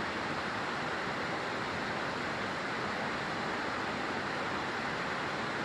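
Steady rushing outdoor background noise, even and unbroken, with no distinct events.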